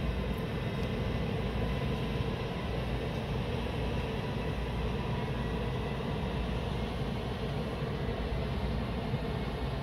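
Steady low rumble and hiss of distant trains running through a railway station, with a faint steady tone above it.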